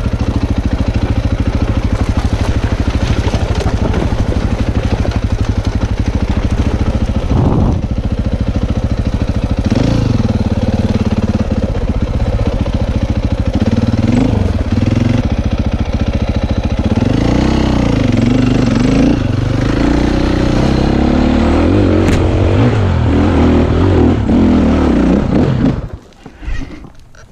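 Dirt bike engine running: steady at first, then revving up and down repeatedly while riding. It cuts off suddenly near the end.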